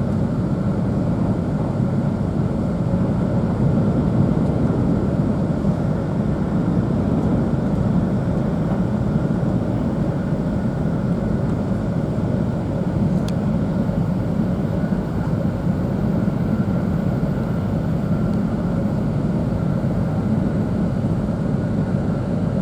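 Running noise inside the passenger cabin of an E2 series Shinkansen: a steady low rumble of the train on the track with a faint, steady higher hum over it.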